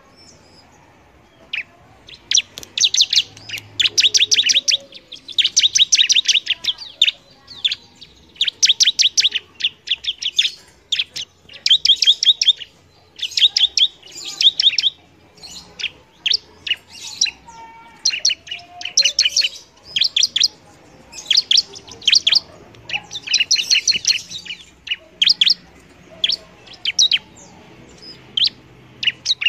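Bar-winged prinia (ciblek) in full song: rapid trills of sharp, high, chipping notes in bursts of about half a second to a second, repeated again and again with short pauses between them.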